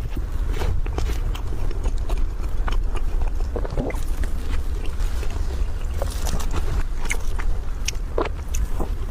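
Close mouth sounds of someone chewing and biting a soft chocolate-coated bun, with scattered wet clicks and smacks, over a steady low rumble.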